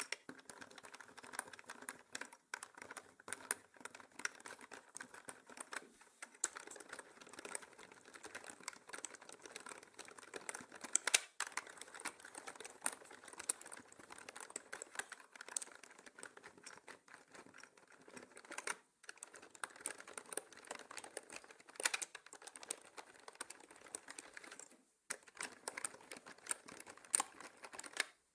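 Continuous fast typing on a mechanical keyboard: a dense run of key clicks, with brief pauses twice near the end, mixed in 8D audio.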